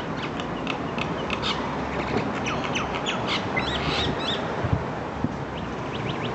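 Birds squawking and chirping in a fight: a rapid jumble of short, high-pitched calls, thinning out after about four seconds, over a steady outdoor hiss.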